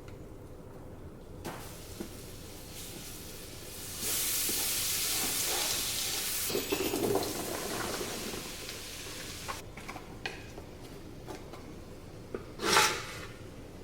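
Food sizzling in a hot pan, starting abruptly about four seconds in and dying down over several seconds, followed by a few light clicks and knocks.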